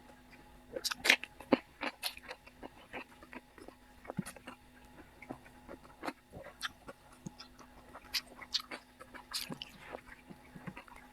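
Close-up eating sounds: a person chewing and biting food with wet smacks and crunches in an irregular run of short clicks, loudest about a second in, over a faint steady hum.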